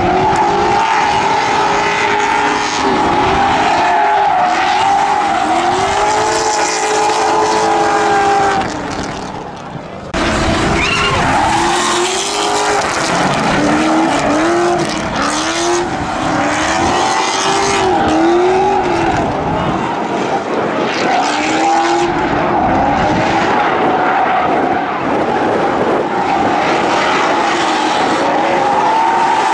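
Drift cars running hard, their engines revving up and falling back over and over, about once a second in stretches, with tyre noise throughout. The sound sags for about a second around nine seconds in, then comes back abruptly.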